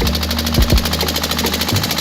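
Small engine running steadily with a fast, even chatter, with a few brief low thumps about half a second in and near the end.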